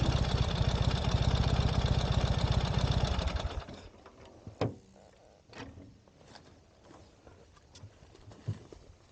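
Ural sidecar motorcycle's flat-twin engine running with a steady pulse, then switched off and winding down about three and a half seconds in. A few light knocks follow in the quiet.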